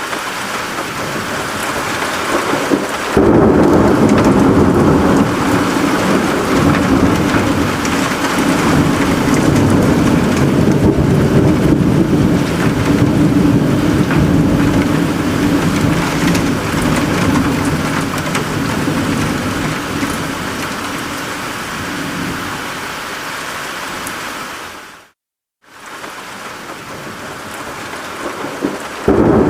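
Steady rain with a long rolling thunder rumble that sets in suddenly about three seconds in and slowly fades. Near the end the sound cuts out completely for under a second, then the rain resumes.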